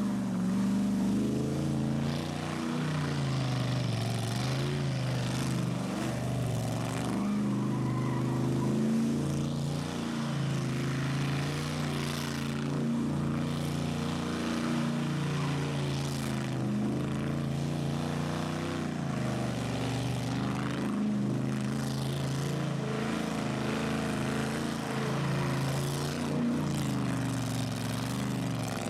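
Vehicle engines running steadily with a low rumble, their pitch wavering a little up and down.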